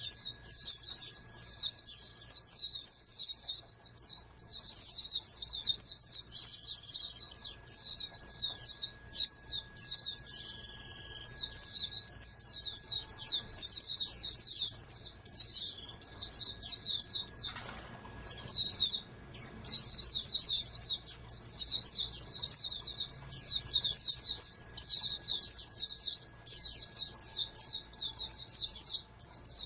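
Pleci (white-eye) singing: a long, fast, high-pitched run of twittering chirps, broken only by short pauses.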